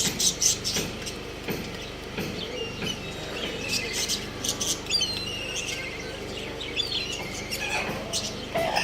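Small pet birds chirping and twittering in many short high calls, with a quick warbling trill partway through and a lower, louder call near the end.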